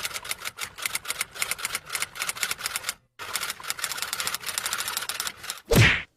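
Typewriter keys clacking in rapid bursts, with a brief pause about three seconds in. Near the end comes one loud sound that sweeps quickly down in pitch.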